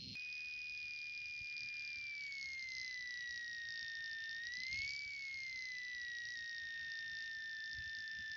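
A steady high-pitched whine that slowly falls in pitch, rises and falls briefly about five seconds in, then holds nearly level.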